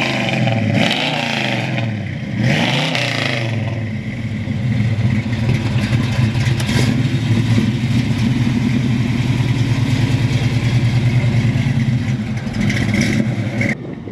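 1969 Chevrolet Camaro SS396's 396 cubic-inch big-block V8 through its header-back dual exhaust, revved up and down a few times, then running steadily with a pulsing rumble as the car pulls away. Near the end the sound drops off abruptly.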